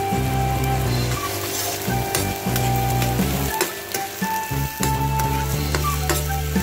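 Sliced onions and garlic sizzling in hot oil in a wok, stirred with a metal spoon that clinks and scrapes against the pan several times.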